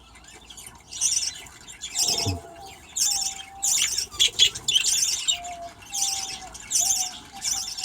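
Budgerigars in an aviary chirping and chattering in short, high bursts about once a second.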